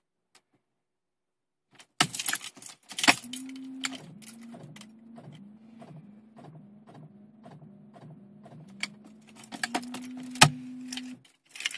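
Keys jangle and click in the ignition of a BMW E36 323i. Its straight-six is then cranked by the starter for about eight seconds with a steady whir and a slow, even pulse, but it never catches. The cranking stops near the end: a no-start on a cold start.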